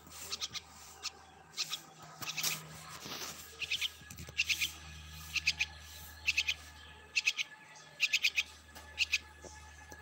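Young bird calling: short chirps in quick groups of two to four, repeated about once a second.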